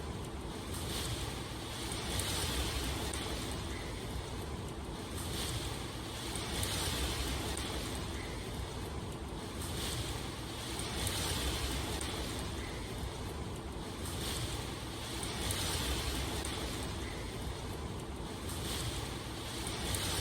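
Steady rushing water noise that swells and eases about every two seconds.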